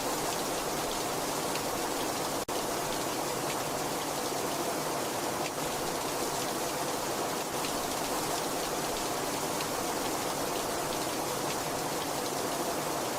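Very heavy rain falling steadily: a dense, even hiss of rainfall with scattered individual drop ticks. It cuts out for an instant about two and a half seconds in.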